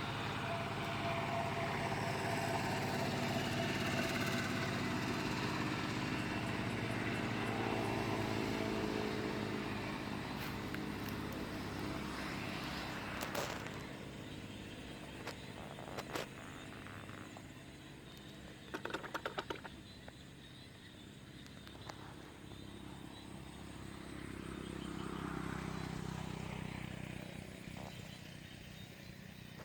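A motor vehicle's engine running and passing, its pitch falling as it fades. A couple of sharp clicks and a brief rattle follow, then another engine swells and fades near the end.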